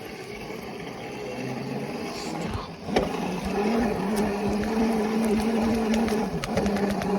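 A small dirt bike's motor humming at a steady pitch as it is ridden over rough ground, with bumps and rattles. A knock about three seconds in, after which the hum is clear, rising briefly and dipping once.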